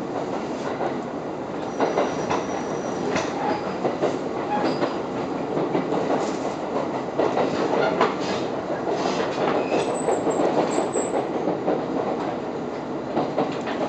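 KiHa 127 diesel railcar running, heard from inside the car: a steady rumble with the wheels clattering irregularly over rail joints, and two brief high squeals from the wheels.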